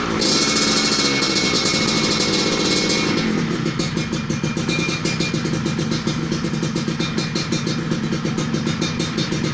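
Two-stroke motorcycle engine running through an aftermarket racing exhaust. The revs fall away at the start, and about three seconds in the engine settles into a rapid, steady, even-pulsed idle.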